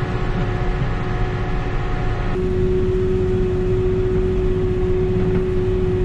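Tractor engine running steadily, heard from inside the cab while out spraying: a constant low drone with a steady whine that shifts to a slightly different tone a little over two seconds in.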